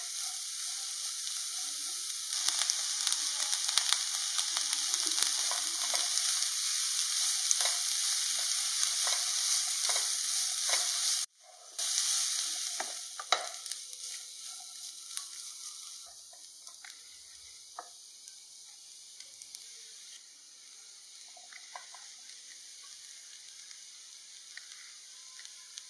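Vegetables stir-frying in a hot non-stick pan: a steady sizzle with a spatula scraping and tapping against the pan. The sound cuts out briefly about eleven seconds in, then the sizzle returns and dies down to a faint sizzle with occasional taps.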